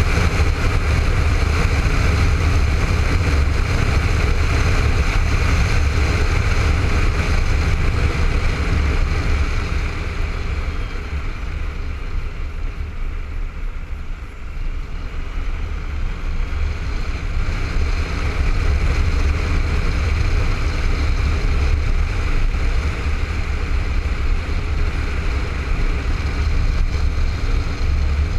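Wind rushing over a helmet-mounted camera on a moving Honda ST1300 motorcycle, with heavy low rumble and the bike's V4 engine underneath. It eases off for a few seconds in the middle, then builds back up.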